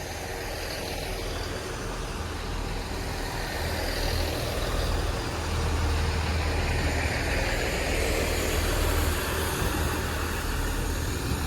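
Class 166 diesel multiple unit arriving at the platform: a steady low diesel engine drone, with a broad rush of train noise that grows louder from about four seconds in.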